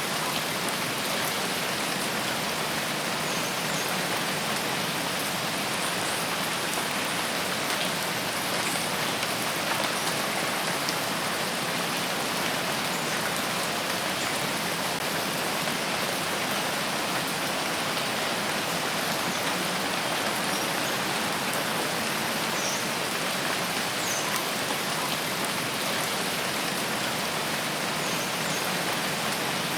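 Steady heavy rain falling on a rain forest canopy, an even hiss of many drops with no let-up. A few faint, short high chirps sound now and then through it.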